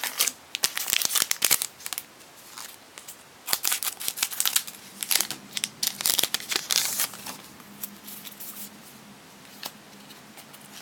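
A foil Pokémon booster pack being torn open and crinkled, in two bouts of crackling and tearing, with lighter rustling near the end.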